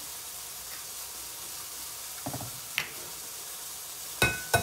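Steady sizzling hiss of frying food, with a few soft knocks around the middle and two sharp, briefly ringing taps near the end as an egg is cracked with a metal fork.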